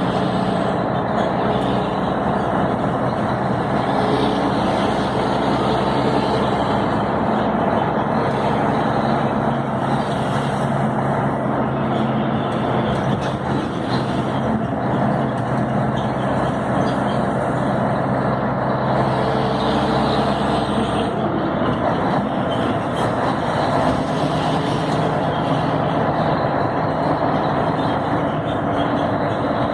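Scania 112 truck's six-cylinder diesel engine running under way, a steady drone with tyre and road noise; the engine note changes about two thirds of the way through.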